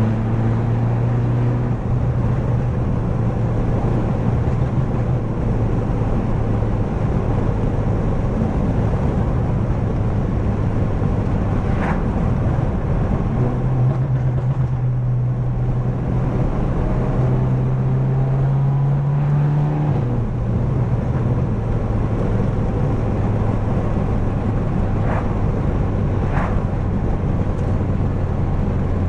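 Straight-piped BMW F30 328i's turbocharged 2.0-litre four-cylinder running at a steady cruise with a deep exhaust drone. About halfway through the engine note rises and holds for several seconds, then drops back abruptly. A few brief sharp cracks come near the middle and toward the end.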